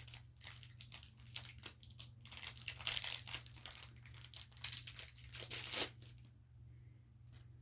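Packaging crinkling and tearing as a small item is unwrapped, a rapid run of rustles that stops about six seconds in. A faint click comes near the end.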